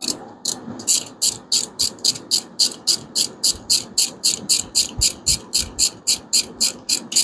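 Hand ratchet wrench clicking steadily as it is worked back and forth, about three clicks a second.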